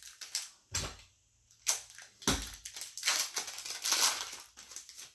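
A trading-card box and pack being opened by hand: two knocks, then about two seconds of crinkling and tearing of the wrapper.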